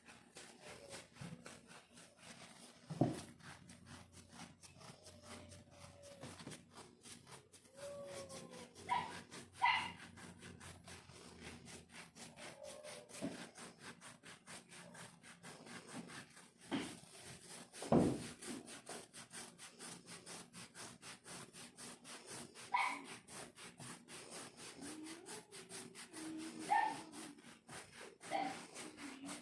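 Dry, flaky skin on a leg being scratched in quick, even strokes, several a second, to loosen large scaly flakes. Two sharp knocks, one a few seconds in and one about two-thirds through, and a few short whines scattered through.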